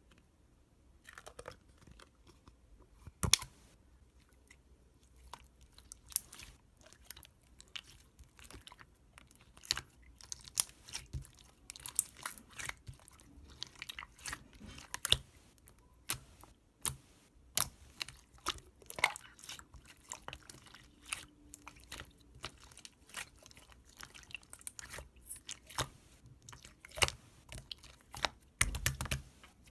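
Clear slime with cube toppings being pressed and kneaded by hand, giving irregular crisp clicks, pops and crackles. One sharp pop about three seconds in is the loudest, and the clicks come thicker near the end.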